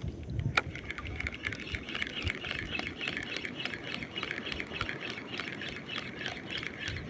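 Shimano FX C3000 spinning reel being cranked on the retrieve after a cast, giving a steady rapid ticking of about five a second. A sharp click comes about half a second in, as the bail closes.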